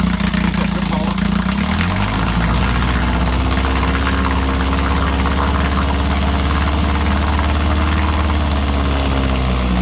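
1961 Evinrude 3 hp Lightwin outboard's two-stroke twin running steadily in a test tank, warming up just after a cold start. Its note changes about two seconds in, then it runs on evenly.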